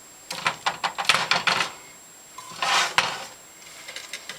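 Utensil and food clattering against a cooking pot as breaded fried chicken pieces go in: a quick run of light clicks and knocks, then a short scraping rustle about halfway through.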